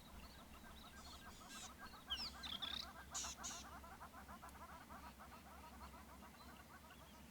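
Wild birds calling outdoors: a fast, continuous chattering chorus, with a few louder, higher calls with sweeping pitch between about one and three and a half seconds in.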